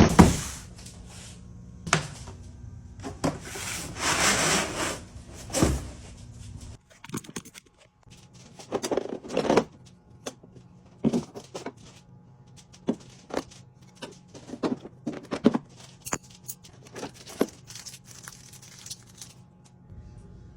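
Handling and unpacking of a new router kit: packaging rustles and tears for a second or so, with irregular clicks, knocks and scrapes of the parts and case. A low hum runs under the first seven seconds and then stops. The router motor is not running.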